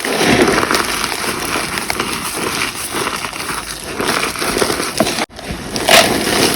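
Gym chalk crackling in close-up: a dense run of small crackles, a brief dropout about five seconds in, then a louder crunch near the end.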